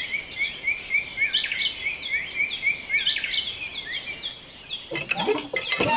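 Small bird chirping over and over, two or three short rising-and-falling chirps a second, over a faint steady hiss; about five seconds in, a noisier sound with clicks comes in.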